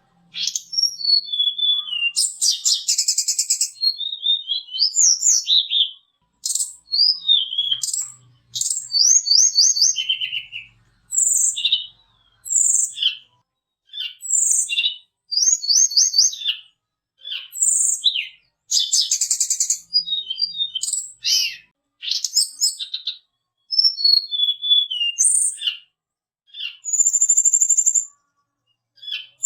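Tledekan gunung (sulingan gunung) songbird singing in full voice: a run of short, varied phrases of high whistles, slurred notes and rapid trills, each separated by a brief pause.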